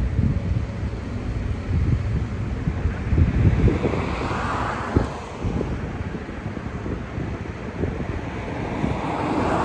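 Road traffic passing, with wind buffeting the microphone. A vehicle swells past about four to five seconds in, with a short thump, and another approaches near the end.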